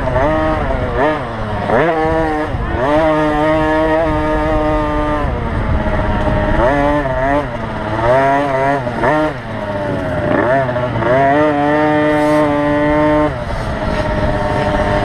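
Small two-stroke motocross bike engines at high revs during a youth 50cc race. The pitch climbs, holds high and falls back several times with throttle and gear changes, and cuts back sharply about 13 seconds in.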